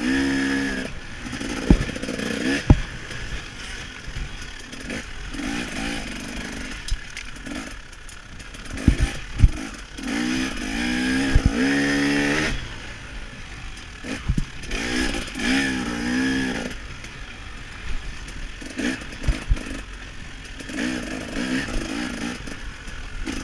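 KTM 300 XC-W two-stroke dirt bike engine revving up and falling off again and again under throttle, with several sharp knocks and clatter as the bike runs over rough track.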